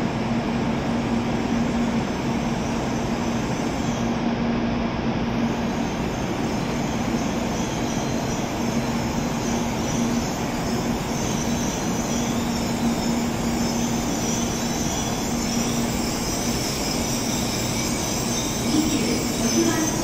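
N700-series Shinkansen trainset pulling into the platform and slowing to a stop: a steady running rumble with a low hum, and a higher hiss building in the last few seconds as it brakes.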